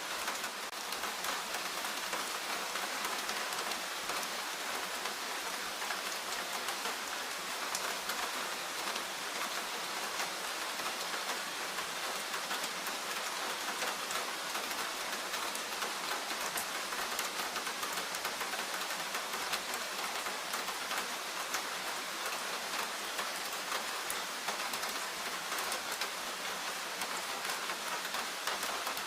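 Steady rain falling in a forest, a dense patter of drops on leaves and surfaces without a break.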